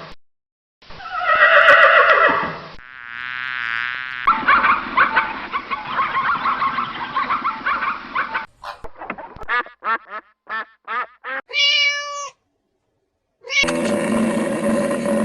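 A string of separate, short animal calls and sounds cut one after another, with brief silences between them: a pitched call, a wavering buzz, a busy patch of quick clicks, a row of short falling chirps, and a long pitched call near the end.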